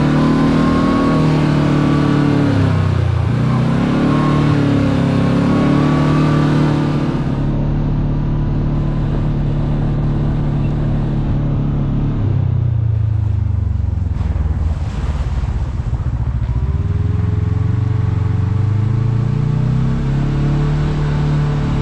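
Side-by-side UTV engine running under way on a dirt road, its pitch dipping as it slows a few seconds in, then holding steady. It drops lower around the middle and climbs again near the end.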